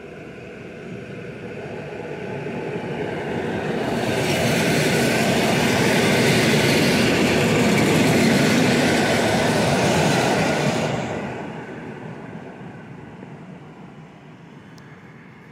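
EN57AKS electric multiple unit passing close by on the rails. Its running noise builds as it approaches, is loudest for about seven seconds as the carriages go past, then fades as it pulls away.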